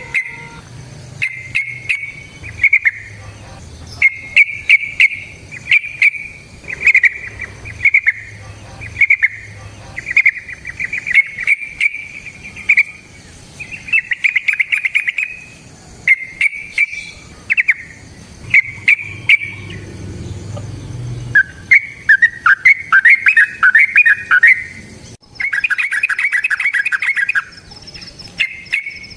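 Yellow-vented bulbul (trucukan) singing, a bubbling, chattering phrase of about a second repeated again and again with short gaps, mixed with many sharp clicks.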